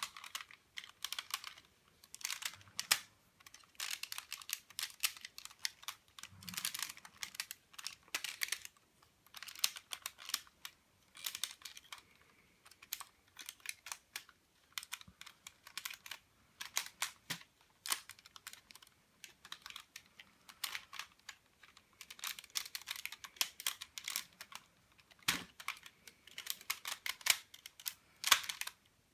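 Plastic parts of a Hasbro Transformers Optimus Prime figure clicking and clattering as they are handled and moved, a rapid irregular run of small clicks with short pauses.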